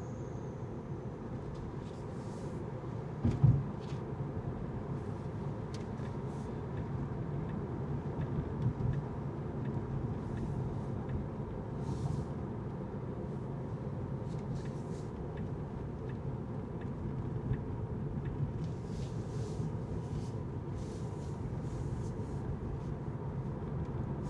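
Steady low rumble of a car driving on city streets, with a single sharp thump about three seconds in.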